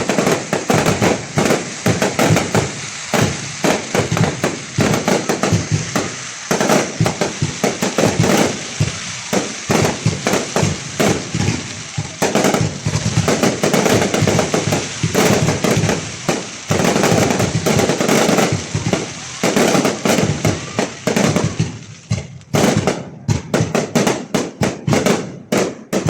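Fireworks going off in a dense, rapid string of cracks and bangs, thinning out to separate bangs over the last few seconds.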